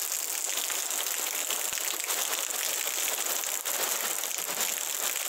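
Heavy rain falling and storm runoff rushing down a flooded dirt street: a steady hiss full of small patters.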